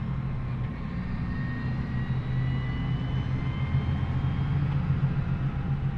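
John Deere 8400R tractor's diesel engine running steadily under way, with a faint whine that rises slowly in pitch as it pulls.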